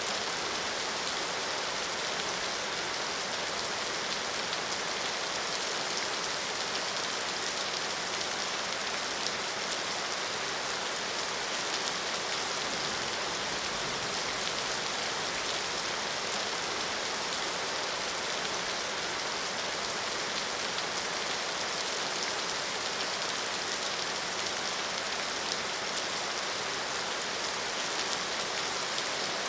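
Steady rain falling, an even hiss of drops with faint scattered patters on a surface.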